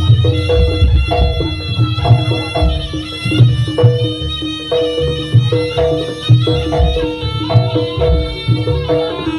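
East Javanese jaranan music, with drums beating a steady rhythm under a pitched melody line.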